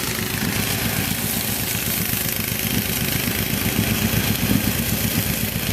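Four-wheeler engine running steadily with a fast, even low throb.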